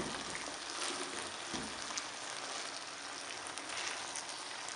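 Macaroni with chicken and vegetables sizzling in hot oil in a frying pan as a spatula stirs it: a steady crackling hiss with a soft thump about a second and a half in.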